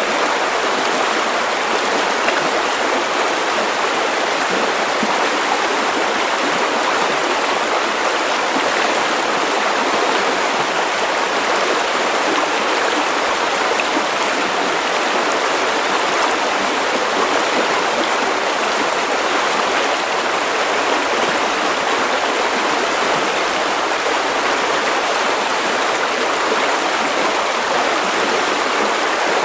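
River water rushing steadily over stones, an even, unbroken babble.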